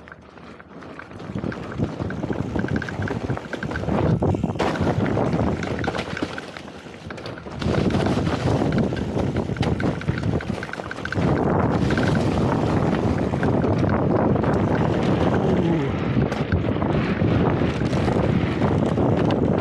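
Wind buffeting a camera microphone during a fast trail ride, mixed with constant rattling and crunching from tyres over the dirt trail. It builds over the first few seconds, eases briefly partway through, then stays loud.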